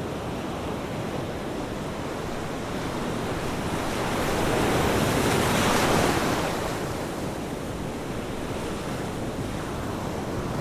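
Ocean surf: a steady wash of waves with one wave building, breaking about six seconds in and washing out.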